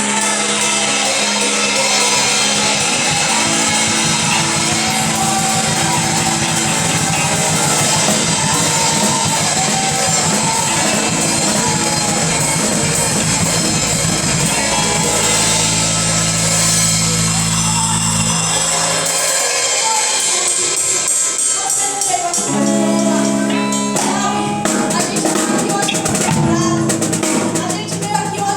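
Gospel worship band playing instrumental music with drum kit and tambourine over sustained low chords. The low notes drop out for a few seconds about two-thirds of the way through, then come back in.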